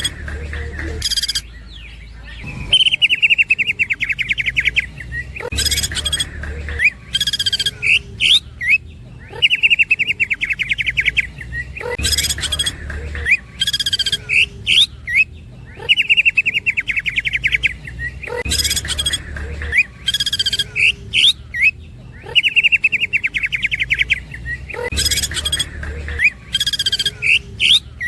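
Green leafbird (cucak ijo) singing the same phrase over and over, about every six and a half seconds. Each phrase is a fast, woodpecker-like rattle of even notes, then loud, sharp calls and a few short rising whistles.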